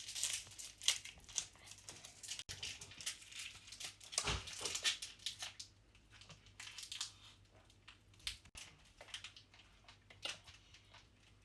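Plastic sweet wrappers crinkling as they are handled and unwrapped, a run of short irregular crackles.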